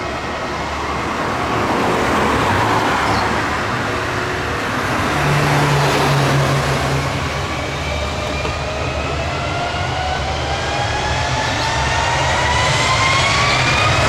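Jet airliner engines: a steady loud rush, with a whine that climbs steadily in pitch through the second half, like engines spooling up.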